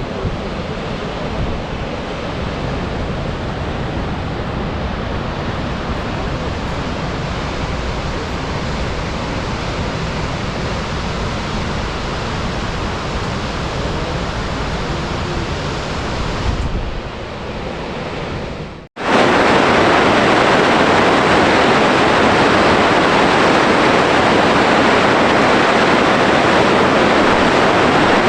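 Gullfoss waterfall's steady roar of falling water. About two-thirds of the way through it cuts off abruptly and comes back louder and brighter.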